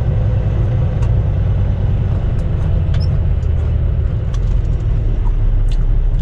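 Steady low rumble of a semi truck's diesel engine and road noise heard inside the cab while driving on the highway, with a few faint clicks and rattles.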